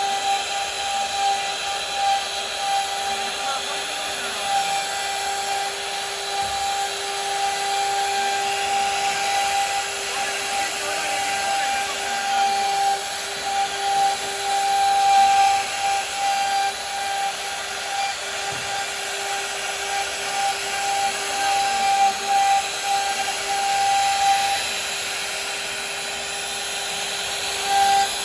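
CNC router spindle running with a steady high whine while its bit cuts wood, with a rough hiss over it. The whine drops out for a few seconds near the end, then comes back.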